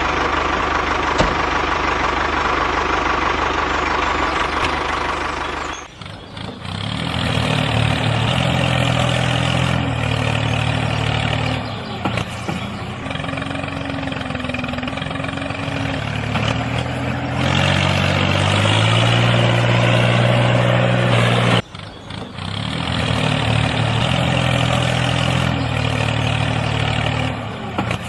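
An engine running steadily, tractor-like. It cuts off abruptly twice, about six seconds in and again about twenty-two seconds in, each time resuming at a slightly different pitch.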